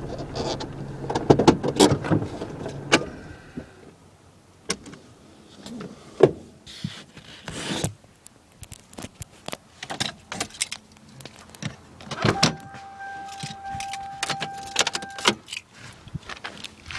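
A low hum fades out about four seconds in, and keys jangle and small clicks and knocks sound around a car. Near the end a steady beep lasts about three seconds.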